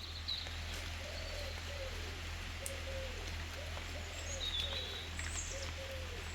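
Birds calling in steady rain: a low call that rises and falls, repeated about twice a second, with a few short high chirps.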